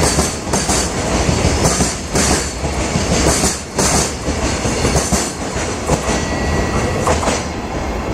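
Freight train wagons rolling past at speed, wheels clattering over rail joints again and again over a steady loud rumble.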